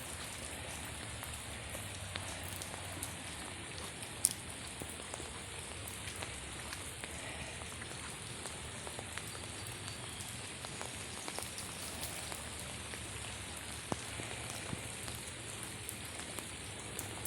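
Heavy rain falling steadily, with many small sharp drop ticks close by and one louder tap about four seconds in.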